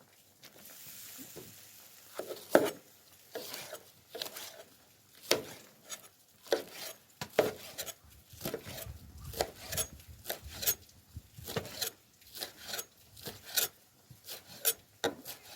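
A utensil stirring and scraping tteokbokki on a cast-iron cauldron lid, with irregular sharp clicks and scrapes of metal on the lid about one or two a second, and a faint sizzle near the start.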